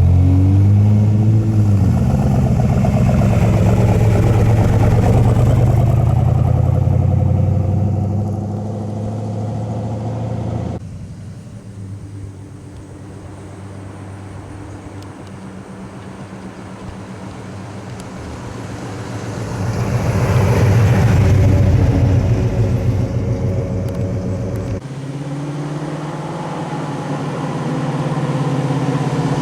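Muscle car engines running, loud at first. The sound drops suddenly about eleven seconds in, swells again and then fades around twenty seconds, and changes suddenly once more near the end.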